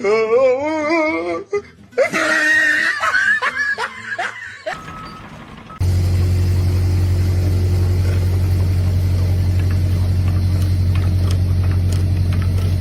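Laughter with wavering pitch for the first few seconds, then, from about six seconds in, a loud steady low hum with a slight regular pulse.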